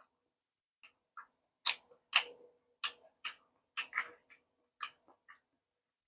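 Close-miked chewing of crunchy food: a string of short, crisp crunches, about two a second, some sharper and louder than others.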